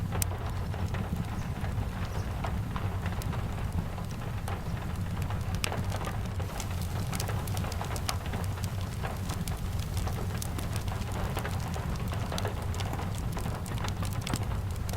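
Steady rain falling, with scattered sharp crackles and pops from a wood fire over a low steady rumble.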